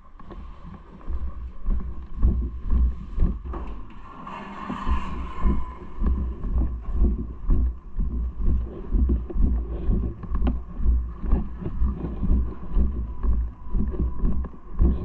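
Wind on the microphone with low rhythmic thumps, about two a second, and a faint steady whine in the background.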